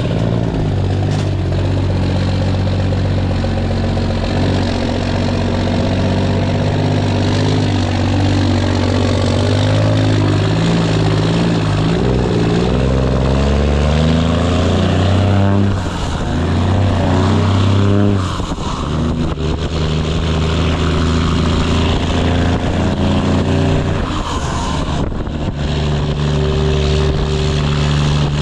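Straight-piped Cummins ISX inline-six diesel in a Kenworth W900 pulling under load. The exhaust note climbs in pitch, then drops back sharply at gear changes, twice in the middle. Near the end it holds at a steady pitch.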